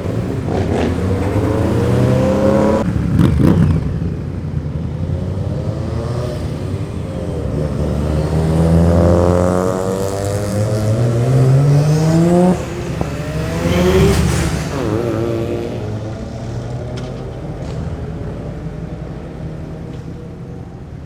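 Performance car engines accelerating hard through the gears, the pitch climbing and dropping at each upshift, as the cars pass by and fade away near the end.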